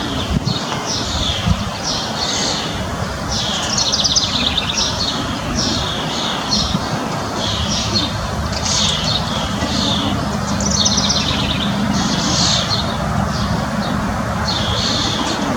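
Small birds chirping in short, quick phrases, about one a second, over a steady background noise with a faint low hum.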